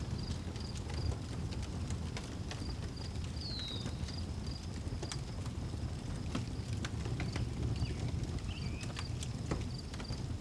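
Wood fire crackling with frequent sharp pops over a low rumble, while crickets chirp in a steady high pulse. A bird gives a short falling whistle about three and a half seconds in and another short call about eight seconds in.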